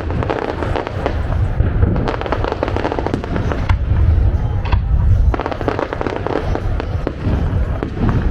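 Fireworks display: rapid overlapping bangs, cracks and crackling pops over a continuous low rumble of booming shells, busiest around the middle.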